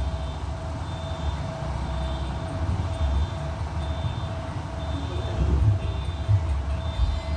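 Strong wind buffeting the microphone: an uneven low rumble, with a faint beep repeating evenly behind it.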